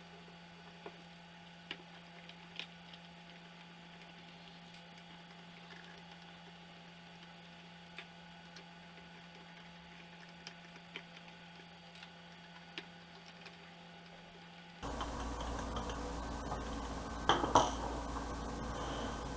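Scattered faint clicks and taps over a steady low hum. About fifteen seconds in, a louder steady background noise with a deeper hum starts suddenly, and a quick cluster of loud knocks follows a couple of seconds later.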